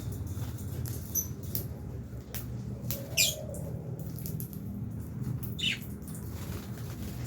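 Lovebirds in an aviary giving two short, high, falling calls, one about three seconds in and another near the end, among scattered light clicks over a steady low hum.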